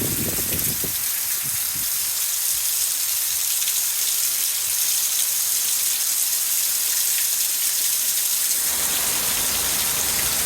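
Heavy rain pouring down in a steady hiss. About nine seconds in, a deeper rushing joins the hiss.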